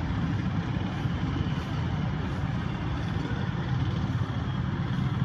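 Steady low rumbling noise with a fainter hiss above it, with no distinct events.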